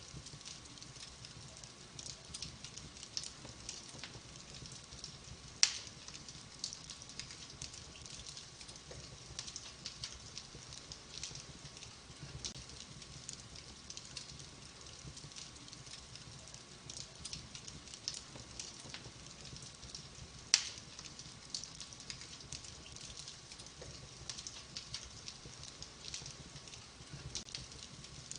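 Wood fire burning in a fireplace: a steady stream of small crackles, with two sharp, loud pops, one about six seconds in and one about two-thirds of the way through.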